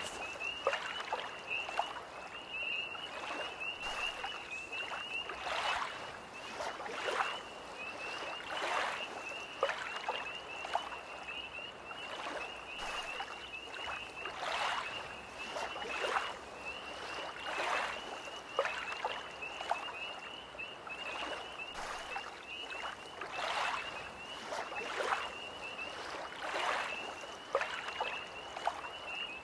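Small lake waves lapping at the water's edge in irregular splashes about once a second, over an unbroken high-pitched trilling chorus of tree frogs.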